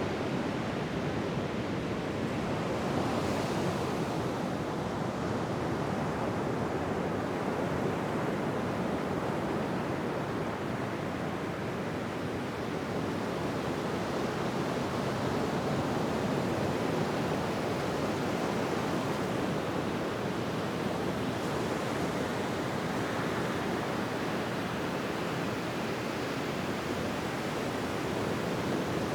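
Ocean surf washing steadily onto a beach, with gentle swells in level and no distinct breaking crashes.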